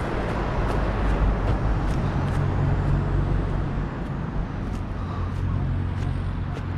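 Motorbike engine running at a steady pitch under road and wind noise, with scattered sharp ticks.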